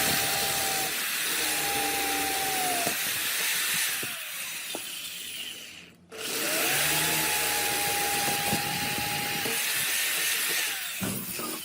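High-speed electric power tool working wood, its motor whine running steady over the cutting noise. The sound cuts off abruptly about six seconds in, then the motor spins up again, rising in pitch, and runs on.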